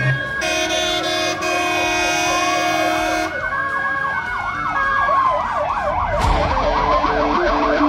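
Several fire engine sirens sounding together in slow, overlapping rising-and-falling wails. A steady horn blast runs from about half a second in to about three seconds in, and a fast yelp joins about four and a half seconds in.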